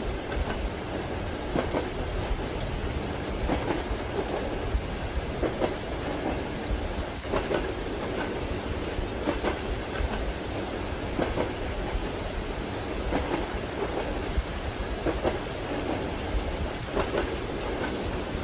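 Steady rain with a low rumble underneath. Over it a train's wheels clack softly on the rail joints, in a regular beat of paired knocks about every two seconds.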